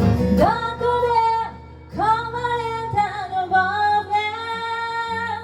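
Live female vocal with acoustic guitar: the guitar strumming drops away about half a second in, then the singer holds long sustained notes over quiet guitar.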